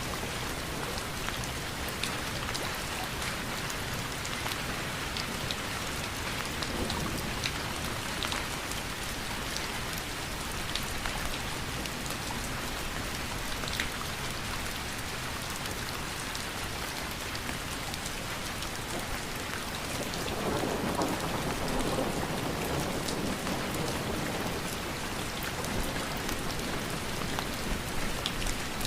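Steady rain falling, with many individual drops ticking on a surface. About two-thirds of the way through the rain swells louder for a few seconds.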